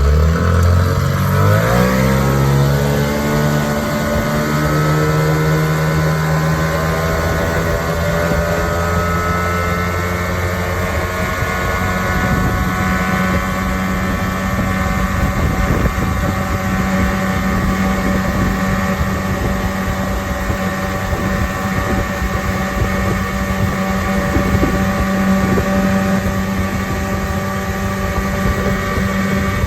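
1976 Evinrude 15 hp two-stroke outboard motor throttled up, its pitch rising over the first couple of seconds, then running steadily at high speed pushing a boat.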